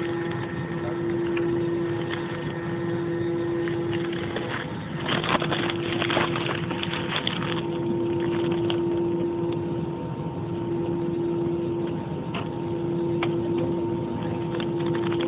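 Airliner cabin noise with the jet engines running steadily: an even hum carrying a constant drone note. About five seconds in, a burst of rattling lasts a couple of seconds, followed by a few scattered clicks.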